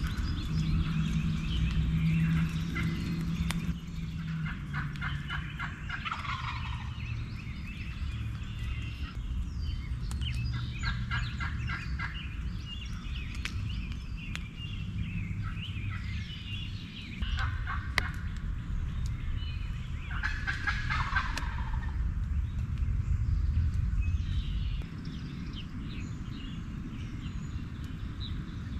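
Eastern wild turkey gobbler gobbling several times, each gobble a fast rattling call that falls in pitch, over a steady low rumble.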